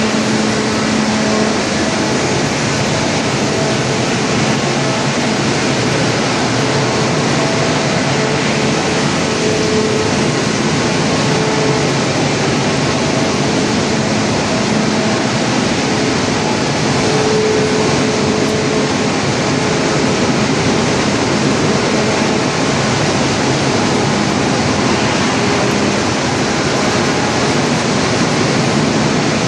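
Wood chipper running, a steady loud mechanical din with a faint hum that wavers slightly in pitch.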